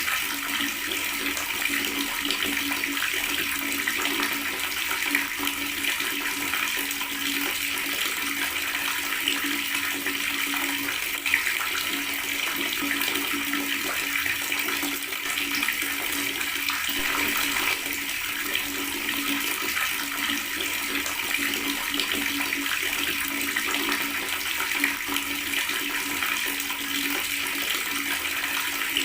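Water running from a tap, a steady gurgling flow with a constant low tone underneath.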